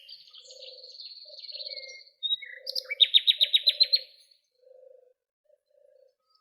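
Songbirds singing: a high buzzy trill, then a fast trill of about ten rapid falling notes that stops abruptly. Soft low notes recur underneath, and the song dies away near the end.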